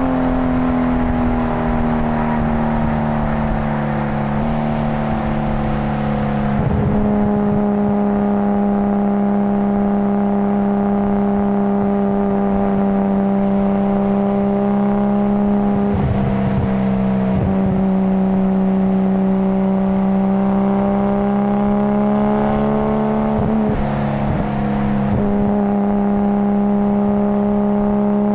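Nissan Skyline GT-R (BCNR33) RB26DETT twin-turbo straight-six running with a steady drone: its pitch eases down over the first few seconds and then holds, broken briefly three times.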